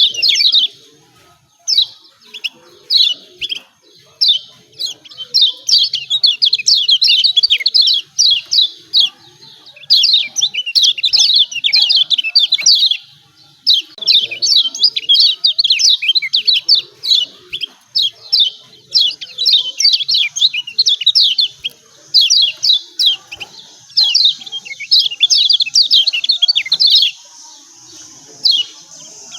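Kecial kuning, a Lombok white-eye, giving excited 'ciak ciak' calls: rapid runs of short, high, sharp notes in bursts of several seconds, broken by brief pauses.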